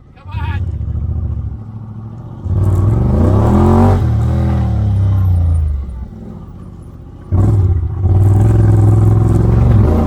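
Side-by-side UTV engine throttled up and down: it comes in just after the start, opens up with a rising pitch about two and a half seconds in, then falls away. It opens up again about seven seconds in.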